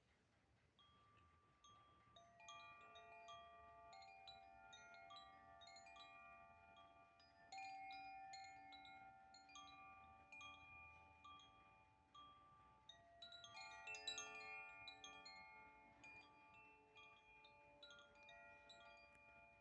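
A wind chime played by hand: its clear tuned tones are struck one after another and overlap as they ring on and slowly fade. The sound is faint, with fuller clusters of strikes about seven and fourteen seconds in.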